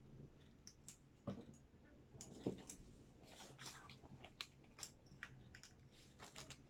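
Quiet handling noises: scattered small plastic clicks and taps, with two louder knocks about a second in and again a second later, as a ring light's USB plug is fitted into a charger.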